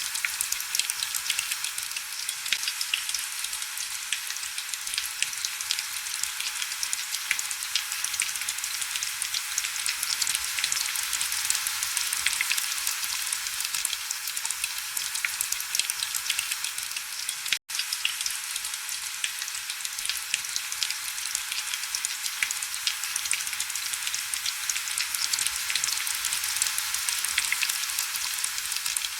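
Heavy rain falling steadily, a dense high patter of fine drops with little low end. It cuts out for an instant a little past halfway.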